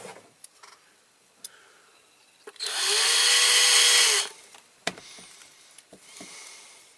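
A small electric drill spins up, runs steadily for about a second and a half, and winds down, drilling out a rivet on a diecast toy car. A sharp click follows about a second later.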